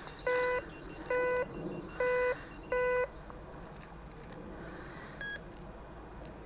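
Metal detector's speaker giving four evenly spaced low-pitched beeps, each about a third of a second long, then a single short higher beep about five seconds in, as the coil is swept over buried targets.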